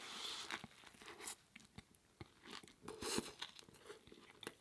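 Close-miked chewing: a person munching a mouthful of food with soft, irregular crunches and mouth clicks.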